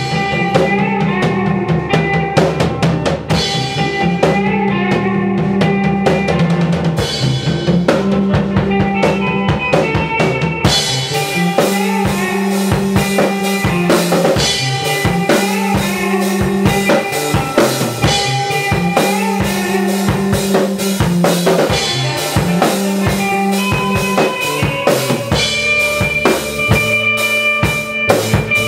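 Rock band music: a full drum kit with kick, snare and rimshots over bass and guitar. About eleven seconds in the music fills out, with denser cymbals and brighter guitar.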